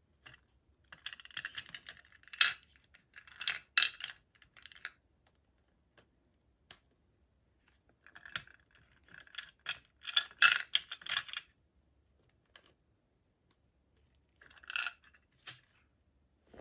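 Small plastic pieces and packaging being handled in three bursts of clicking and rustling, with quiet pauses between.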